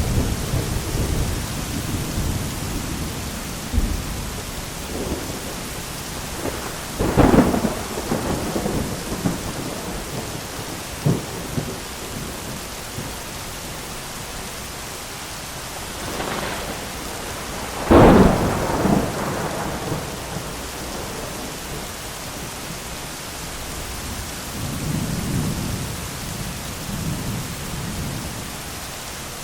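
Steady heavy rain with thunder: rolling rumbles, two sharp close thunderclaps about seven and eighteen seconds in (the second the loudest), and lower rumbling near the end.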